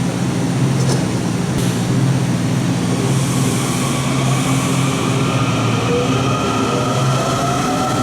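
Washington Metro subway train pulling out of the station: a steady low hum, then a rising motor whine as it accelerates from about three quarters of the way through.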